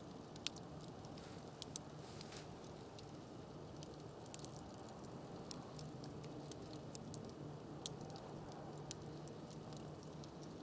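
Campfire crackling: irregular sharp pops and snaps of burning wood over a faint steady hiss, the loudest pop about four seconds in.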